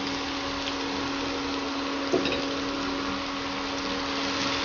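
Chopped spring onions sizzling in hot oil in a kadhai, a steady hiss, over the steady hum of the induction cooktop. A spatula knocks once against the pan about two seconds in.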